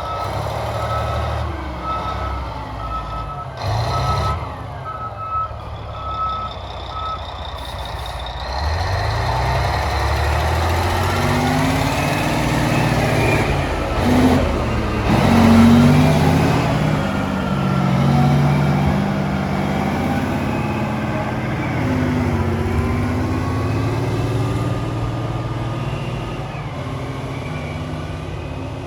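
Cat 773B rock truck's Cat 3412 V12 diesel running, with its reversing alarm beeping steadily. The beeping stops about seven seconds in, and the engine then revs up under load as the truck drives off, its pitch rising and falling.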